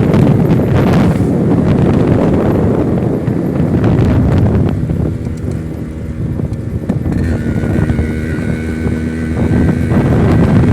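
Yamaha RX100 two-stroke single-cylinder engine running as the motorcycle is ridden, under heavy wind noise on the microphone. About halfway through the wind eases and the engine's steady note comes through clearly, then the wind rises again near the end.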